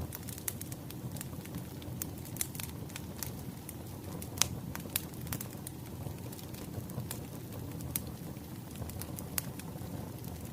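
Wood fire crackling: irregular pops and snaps over a low, steady rumble of burning logs, with one louder pop about four and a half seconds in.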